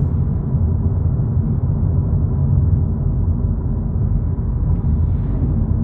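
Steady low rumble of road and engine noise heard inside a 2022 VW Polo GTI while it drives.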